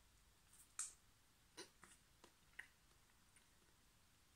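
Faint wet mouth clicks and smacks of someone chewing a doughnut and licking their fingers: about half a dozen short, soft clicks over the first three seconds, otherwise near silence.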